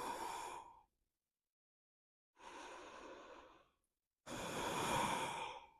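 A person breathing slowly and audibly while holding ear-pressure pose (plow with the knees drawn down beside the ears): three separate breaths. The last is the longest and loudest.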